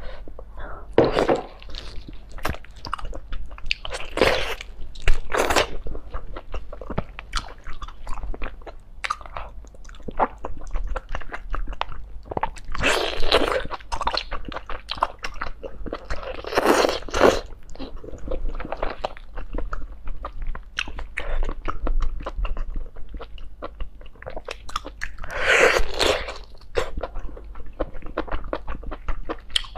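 Close-miked chewing and biting of braised octopus tentacles: wet mouth sounds in bursts, with louder spells every few seconds.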